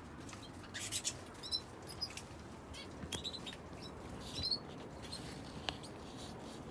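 Small aviary cage birds giving short, scattered chirps, with brief wing flutters and rustling clicks between them.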